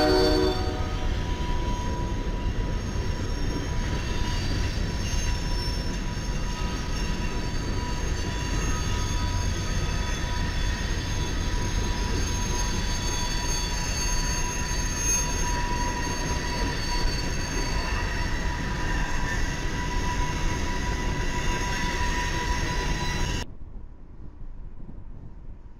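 Freight train of tank cars and covered hoppers rolling past: a steady rumble of the cars with thin, high, drawn-out squeals of steel wheels on the rails. A train horn fades out in the first half second, and near the end the sound drops suddenly to a much quieter, distant train.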